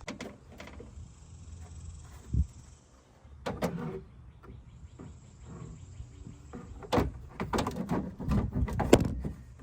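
Intake tubing and parts being handled and pushed into place on the engine: scattered knocks, clicks and rattles, with a sharp thump a couple of seconds in and a busier run of knocks near the end.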